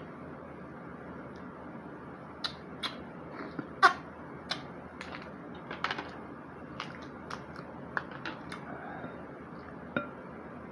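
Mussel shells clicking and clinking as they are handled and eaten: about a dozen sharp clicks at uneven intervals, the loudest about four seconds in.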